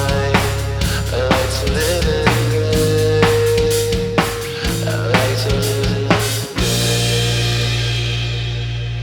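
Instrumental ending of a punk rock song: the drum kit hits hard over held bass notes, then about six and a half seconds in a final chord is struck and left to ring out, fading.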